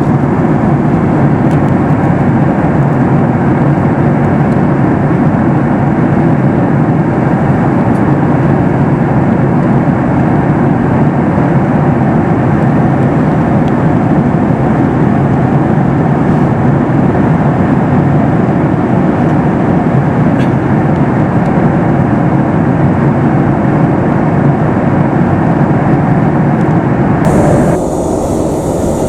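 Steady rush of cabin noise aboard a Boeing 737 MAX 8 in flight, engine and airflow noise blended together. Near the end it changes abruptly to a slightly quieter rush with a different tone.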